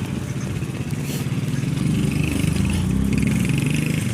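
A motor vehicle's engine passing close by on the road, its hum swelling about halfway through.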